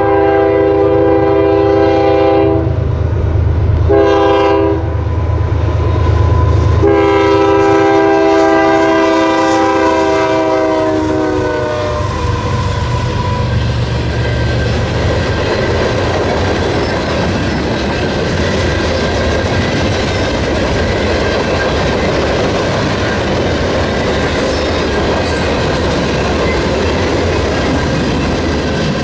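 Diesel freight locomotive sounding its multi-chime air horn in a long blast, a short blast, then a longer blast whose pitch drops as the locomotive passes, with its engine rumbling underneath. The freight cars then roll by with a steady clatter of wheels on rail joints.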